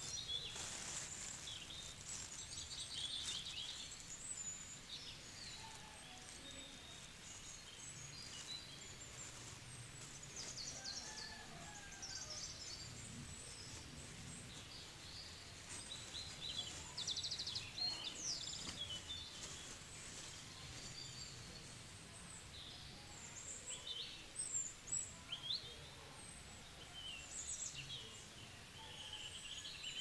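Birds chirping: many short, high calls and trills scattered and overlapping, over a faint steady background noise.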